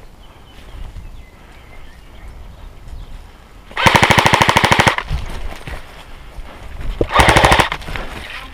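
Airsoft gun firing two full-auto bursts of rapid, evenly spaced shots, roughly twenty a second. The first burst lasts about a second, about four seconds in, and a shorter burst follows a few seconds later.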